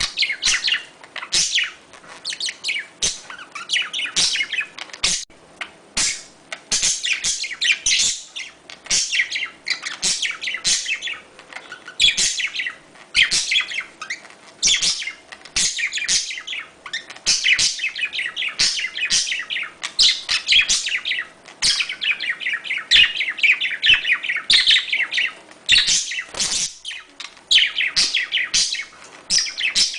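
Budgerigars chirping and warbling continuously in dense, rapid chatter, the calls they make during courtship and mating.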